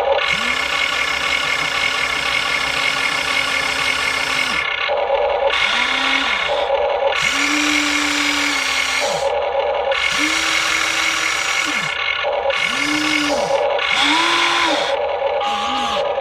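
Huina 1593 RC excavator's small electric motors whirring in repeated runs as its functions are worked, each spinning up, holding a steady whine and winding down. The first run lasts about four seconds, then come about six shorter ones of one to two seconds.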